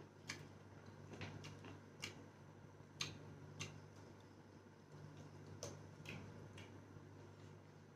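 Mouth sounds of eating by hand: scattered faint clicks and lip smacks of chewing, about one every second or so, over a low steady hum.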